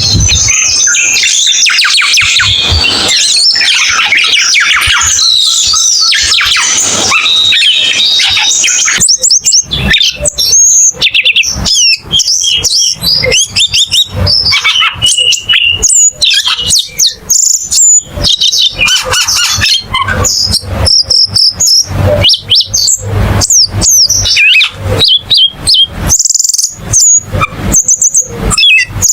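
Cucak keling songbird singing a fast, varied stream of chirps, whistles and chatter. The song is dense and continuous for the first nine seconds or so, then breaks into quick separate chirps and whistles with short pauses.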